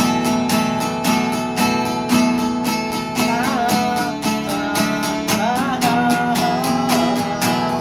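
Acoustic guitar strumming a steady rhythm as the instrumental accompaniment between sung lines. A voice joins with a wordless, wavering line in the middle.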